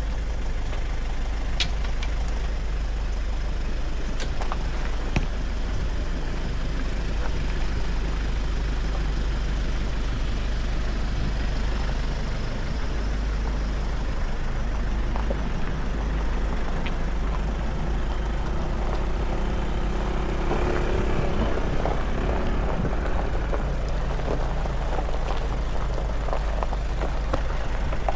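Nissan Navara pickup driving downhill: a steady low rumble of engine and road noise, with scattered light clicks and knocks. It grows somewhat louder and busier about twenty seconds in, with a faint hum.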